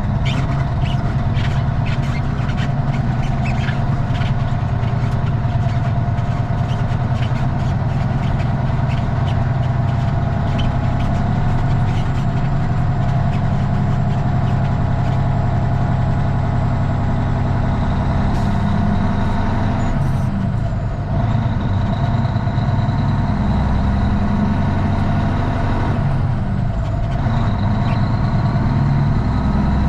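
Straight-piped Cummins ISX inline-six diesel in a Kenworth T800 running steadily, with scattered light clicks over the first dozen seconds and two brief dips in the engine note about two-thirds of the way through and near the end.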